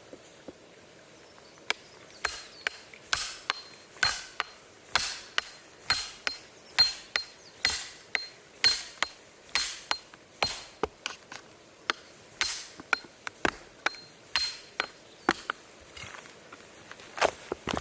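A quick series of sharp knocks, about two to three a second, that starts about two seconds in and keeps going, each with a short ring.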